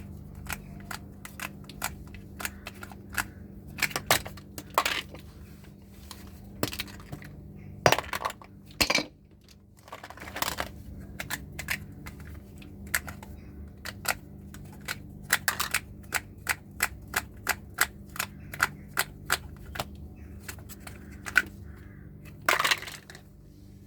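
A hammer repeatedly smashing deodorant sticks: a run of sharp, irregular blows, several a second at times, with a few heavier strikes standing out.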